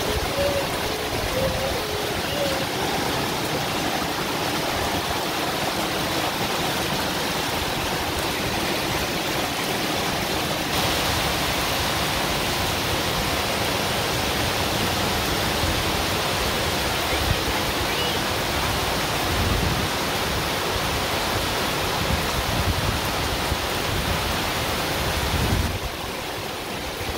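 Heavy tropical rain pouring steadily onto leaves and wet ground, a dense, even hiss that eases slightly near the end.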